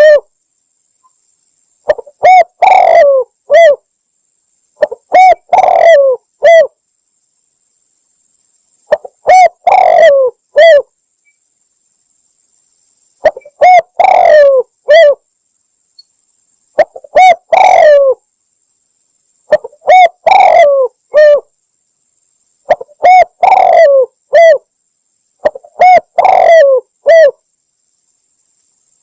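Spotted dove (tekukur) cooing, played as a hunter's lure call: a loud phrase of several coos, repeated about every three seconds with short silences between, about nine times.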